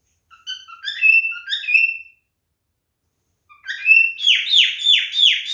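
Male cockatiel whistling song: a phrase of short chirps and whistles, a pause, then a second phrase that ends in a run of five quick downward-sliding whistles.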